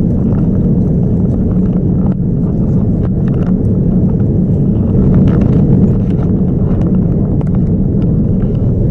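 Steady loud low roar of a Boeing 787-9 airliner cabin, with a faint steady hum and scattered light clicks and rattles.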